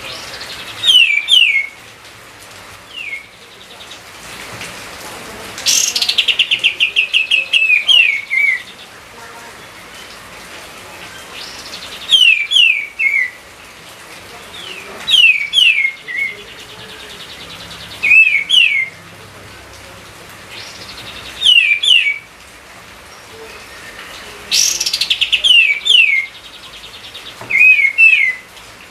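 A songbird singing a repeated short phrase about every three seconds. Each phrase is a few quick, clear notes sliding downward, and some open with a fast buzzy rattle. A faint steady hiss lies underneath.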